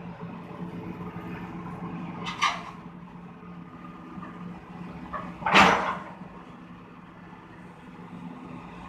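Heavy machinery engine running steadily at a constant speed, with two short noisy bursts about two and a half and five and a half seconds in, the second louder.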